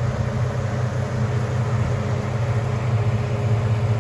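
A 4.3 V6 engine idling steadily with an even low hum.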